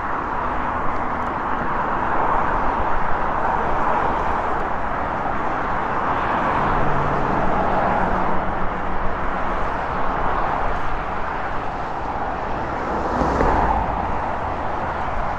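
Steady rushing noise of riding a bicycle: wind and road noise on the camera's microphone, with a faint low hum around the middle.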